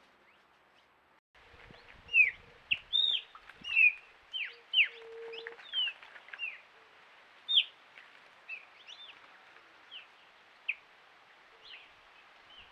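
Several small wild birds calling at once: short, sharp chirps, several a second, starting abruptly about a second in and thinning out toward the end. One brief low call comes about five seconds in.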